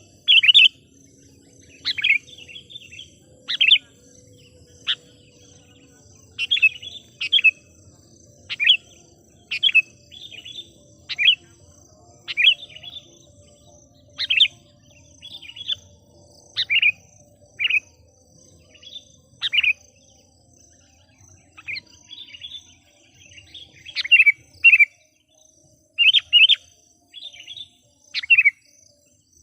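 Sooty-headed bulbul (kutilang) decoy bird calling: short bright chirping phrases repeated about once a second, the lure call used to draw in wild bulbuls.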